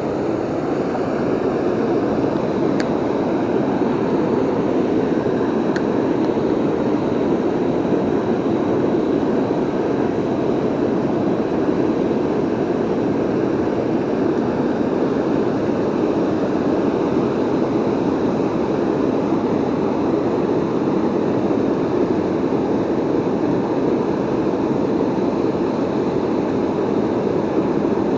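Waterfall rushing steadily: a loud, even wash of falling water with no change over the whole stretch. Two faint clicks come about 3 and 6 seconds in.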